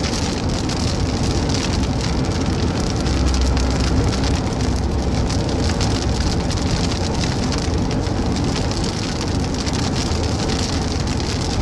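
Heavy rain drumming on a moving car, over a steady low road and engine rumble, heard from inside the car.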